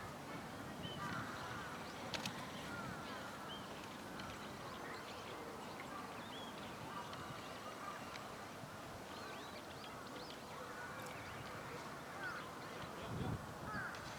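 Scattered short bird chirps and calls over a steady background hiss, with a brief low rumble near the end.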